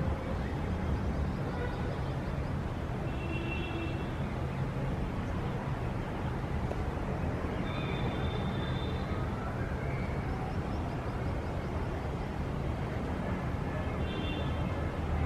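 City ambience: a steady low hum of traffic, with short high bird calls over it now and then.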